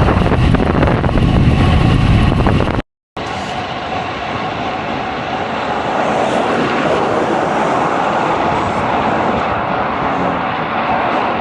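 Strong wind buffeting the microphone while riding a road bike, a loud steady rush with heavy rumble. The sound cuts out for a moment about three seconds in and comes back thinner, with less rumble.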